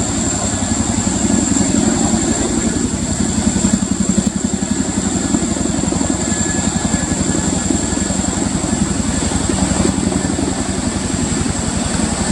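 Military helicopter running close by: a steady, rapid rotor beat under a constant high whine.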